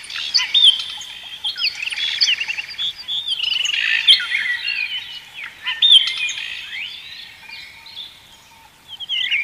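Several wild birds calling and singing at once in the morning: a busy mix of chirps and whistled notes, thinning out for a moment shortly before the end.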